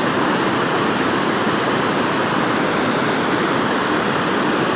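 Steady rush of water pouring through a dam spillway, an even, loud roar with no breaks.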